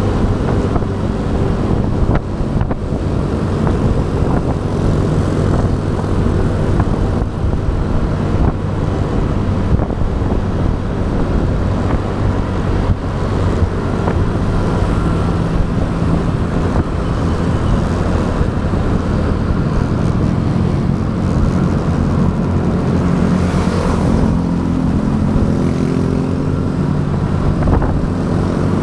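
Motorcycle engine running steadily while riding, picked up by a camera mounted on the bike, over steady road and traffic noise.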